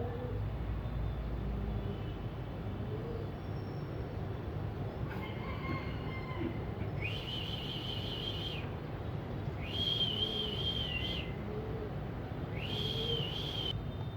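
A bird calls three times, each a drawn-out, high, slightly wavering whistle lasting a second or so, starting about halfway through. A steady low rumble of traffic or an engine runs underneath.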